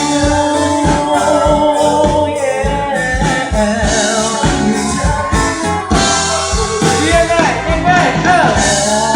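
Live band playing a Thai pop ballad with electric guitar lead, bass and a steady drum beat, amplified through a PA system.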